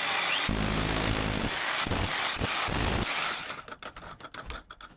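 Power tool chiselling a channel into a wall for electrical conduit, running loud and steady, then stopping about three seconds in. Light scattered clicks and knocks follow.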